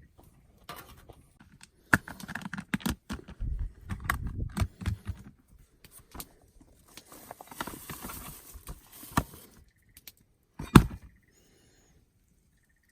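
Irregular clicks and knocks with stretches of rustling, like handling noise; one knock near the end is the loudest.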